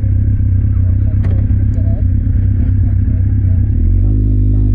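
Kawasaki Z1000's inline-four engine running through an Akrapovic exhaust as the motorcycle is ridden along; near the end the note settles into a steadier, more even tone.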